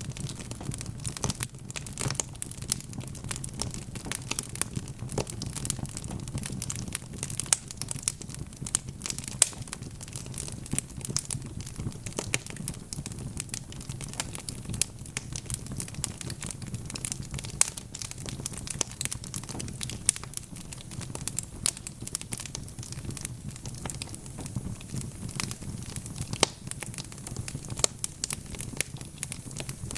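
Wood fire crackling steadily in a fireplace: a constant scatter of small sharp pops and snaps, a few louder ones, over a low steady rumble of burning.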